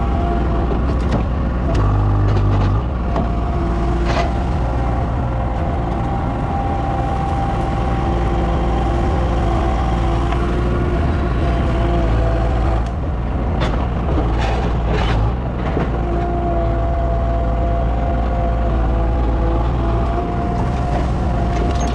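A large engine running steadily at an even pitch, with a few short sharp knocks or cracks over it.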